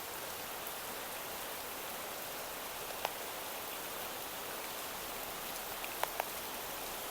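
Steady rain falling outdoors, an even hiss, with a few single drops hitting close by about 3 seconds and 6 seconds in.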